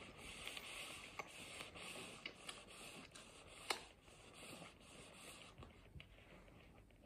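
Quiet close-up eating sounds: chewing tortellini with small wet mouth clicks over a faint rustle, and one sharper click about halfway through.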